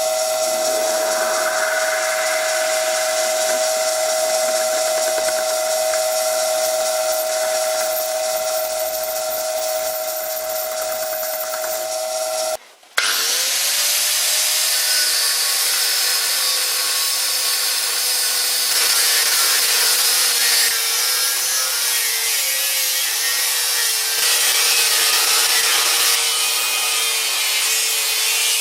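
A workshop power tool running under load as metal is machined, with a steady whine. The sound breaks off about halfway through, and a second machining sound starts whose motor pitch rises as it spins up, then runs steadily with a harsher, brighter cutting noise.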